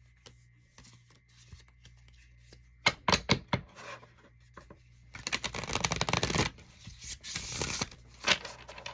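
Oracle cards being shuffled by hand: a few sharp card snaps about three seconds in, then two longer runs of shuffling rustle starting around five and seven seconds in.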